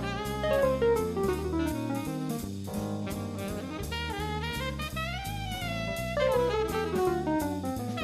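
Jazz orchestra playing at a steady swing with drum kit and cymbals and low bass notes, under a solo line. The solo plays quick runs that step downward in pitch, with a longer phrase that rises and falls near the middle.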